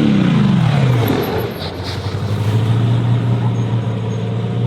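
A combustion engine's revs falling away in the first second, then settling into a steady low idle.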